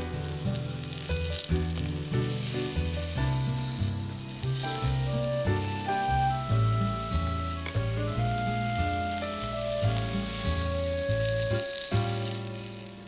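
Fire crackling and hissing in a small camping fire stand, under background music.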